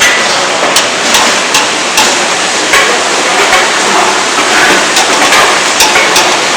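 Elephant foot yam pieces sizzling in hot oil in a pan, with frequent sharp, irregular clicks of a spatula stirring and knocking against the pan.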